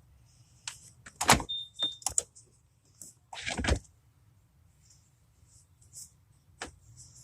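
A series of knocks and clatters, the loudest about a second in and a longer rattle about three and a half seconds in, with two short high beeps in between.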